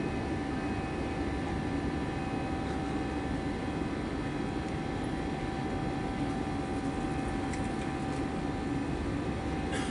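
Airbus A320-216 jet airliner's CFM56 engines running in a steady drone, a constant rush of noise with a few faint steady tones over it, and a brief click near the end.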